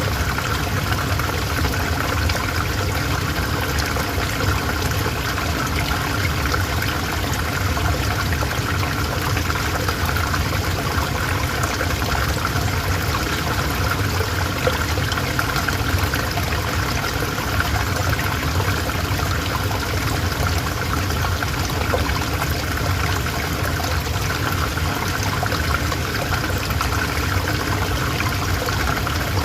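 A calm river flowing steadily, a continuous even sound of running water.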